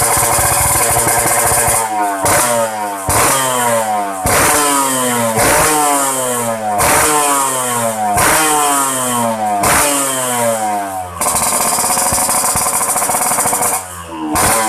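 Yamaha RX-King two-stroke single-cylinder engine through an under-belly expansion-chamber exhaust, revving. It is held at high revs, then blipped repeatedly: the revs shoot up and fall away about once a second. Near the end it is held high again, with a dip and one last blip.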